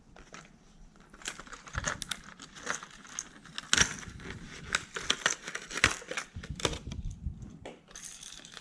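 Plastic lure packaging being opened and handled: irregular crinkling and crackling with many sharp clicks as the blister pack of a Lucky Craft LV Max 500 lipless crankbait is worked open.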